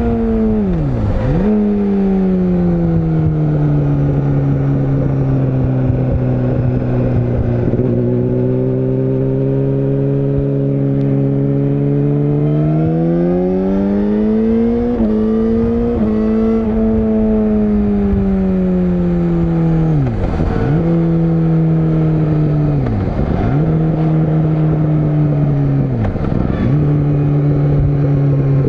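Yamaha YZF-R6 (RJ27) 600 cc inline-four motorcycle engine being ridden: its note falls and holds steady, climbs again with two quick steps about halfway through, then drops sharply and picks back up three times near the end.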